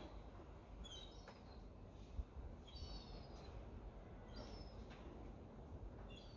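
Faint bird chirps: a few short high calls every second or two, over steady low background noise.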